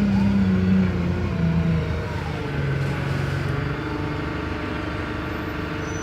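Diesel engine of a Wrightbus StreetLite DF single-decker bus running on the move. Its drone drops in pitch in several steps over the first few seconds, then holds steady.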